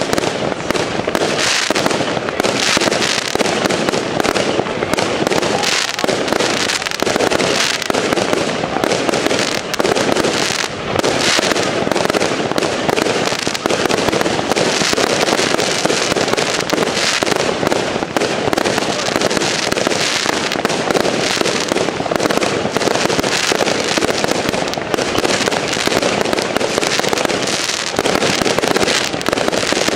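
Consumer fireworks bursting in the air in quick succession, several bangs and crackles a second without a break, the steady barrage of a fireworks cake.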